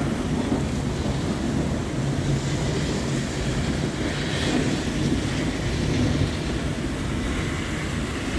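Thunderstorm: steady rain with a continuous low rumble of thunder underneath.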